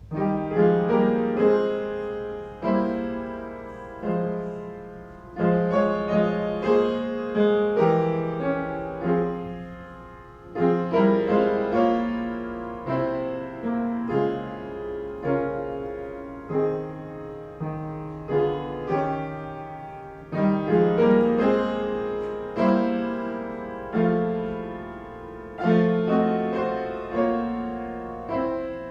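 Solo piano playing slow chords, each struck note ringing and fading, beginning suddenly after a hush.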